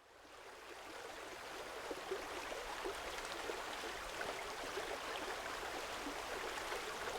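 A small stream running and babbling, fading in over the first couple of seconds and then flowing steadily.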